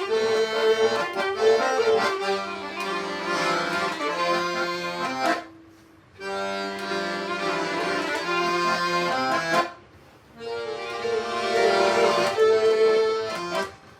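Accordion playing an instrumental passage of a folk song in held-note phrases, broken by two short pauses about five and a half and ten seconds in.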